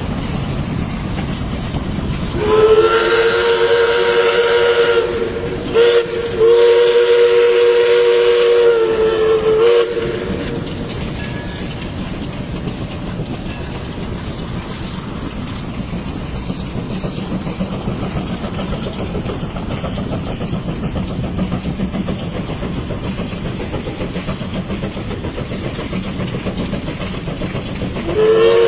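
1947 Baldwin Mikado 3 ft gauge steam locomotive sounding its whistle, several notes at once, in two long blasts with a short break between, ending about ten seconds in. The train then runs on with steady rolling noise, and the whistle starts again at the very end.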